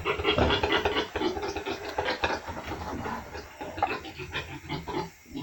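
A group of young piglets grunting and scuffling about, busiest and loudest in the first two seconds, then thinning out.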